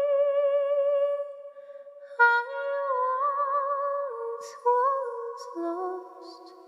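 Wordless a cappella singing by a high, female-range voice, holding long notes with vibrato. After a fade about a second in, a new phrase moves through a few notes, and a lower voice comes in on a held note near the end.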